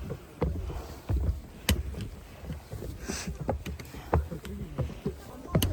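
Footsteps on a mountain hiking trail: irregular low thuds about one or two a second, with a couple of sharp clicks.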